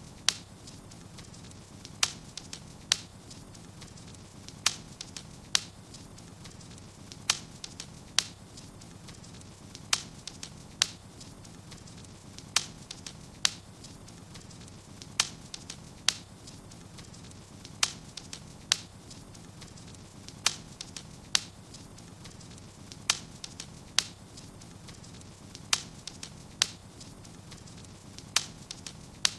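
Wood fire burning in a fireplace: sharp crackling pops, about one or two a second at uneven intervals, over a low steady hiss.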